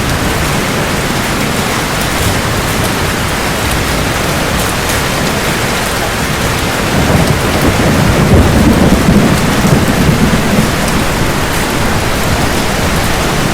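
Steady heavy rain falling on hard surfaces, with a roll of thunder rumbling up about halfway through and fading away a few seconds later.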